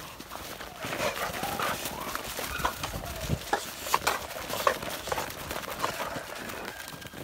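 American Bully dogs play-fighting: a steady run of scuffling and short, sharp noises, with brief high blips scattered through it.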